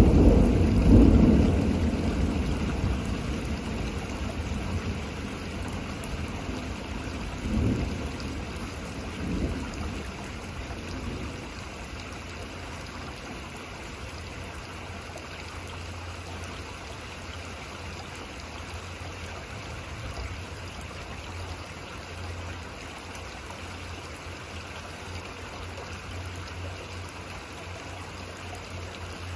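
Thunder rumbling loudly at the start and slowly dying away over about ten seconds, with two smaller rumbles partway through, over steady rain.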